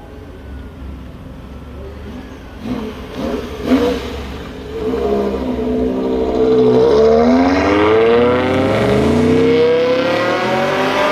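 BMW M6's 5.0-litre V10 with a G-Power Stage 2 tune and KKS exhaust: it idles with a low rumble, then gives a few sharp revs about three to four seconds in. It then accelerates hard, its pitch rising, drops once at an upshift about seven seconds in, and climbs again.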